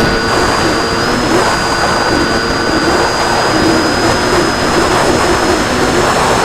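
RC plane's motor and propeller running steadily in flight, heard onboard with a rush of wind noise and a steady high whine.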